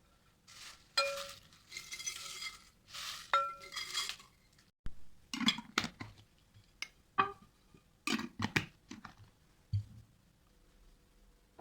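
Dishes and kitchen utensils being handled. A few seconds of noisy scraping with light ringing clinks, then a string of sharp knocks and clinks.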